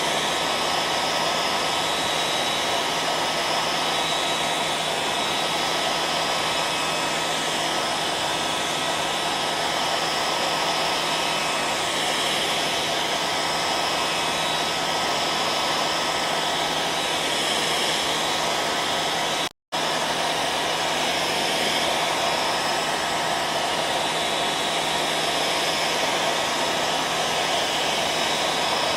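Hair dryer running steadily: an even blowing noise with a constant whine from its fan motor. About two-thirds of the way through, the sound cuts out for a split second and comes straight back.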